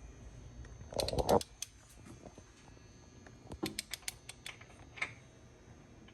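Ratchet wrench clicking in short quick runs, about a second in and again in the middle, as a fastener on the BMW 535i xDrive is turned during the oil change; a brief louder scrape comes with the first run.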